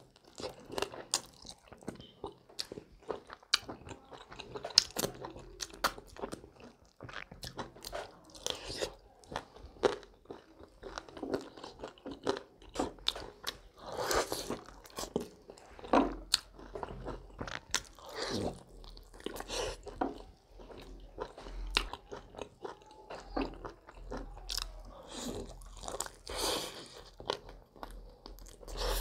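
Close-miked chewing and biting of sauce-coated fried chicken wings, with irregular crunches.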